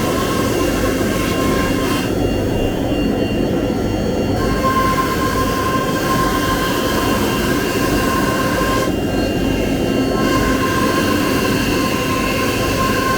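Large CNC router running steadily, its spindle giving a high whine over a constant machine and extraction noise. The upper whine thins out twice, a couple of seconds in and again around nine seconds, as the cut changes.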